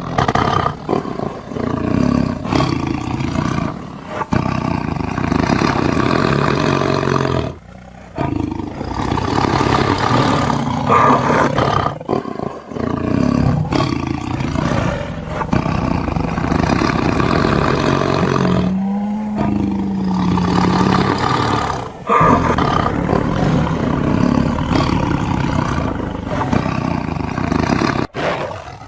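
Tiger roars and growls, one after another, broken by a few brief gaps.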